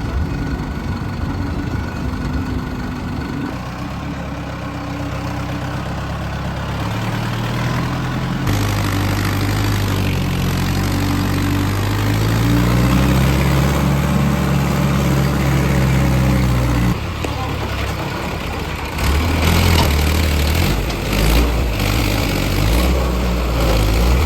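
Heavy diesel engine of a tractor or earthmover running, its pitch rising and falling as it revs. The sound changes abruptly about 17 seconds in, and engine noise carries on after.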